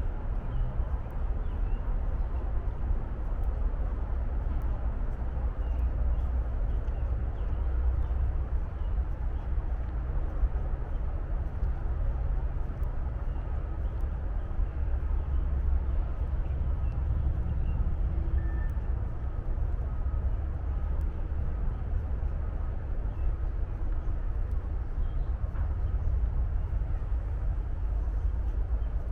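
Steady low rumble of distant highway traffic, with a few faint bird chirps above it.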